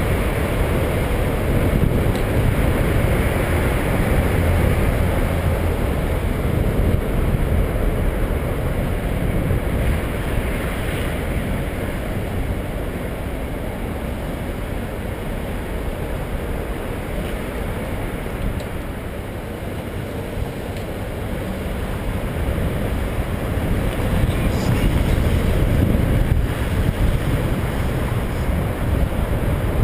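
Wind rushing over the microphone of a camera on a moving bicycle, a steady rumbling rush that eases a little about two-thirds of the way through and builds again near the end.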